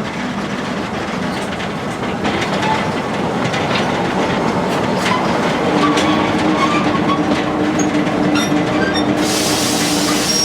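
Narrow-gauge forest railway train running, its wheels clicking over the rail joints under a steady rumble, with thin squealing tones from about halfway through. About nine seconds in, a hiss comes in over the top.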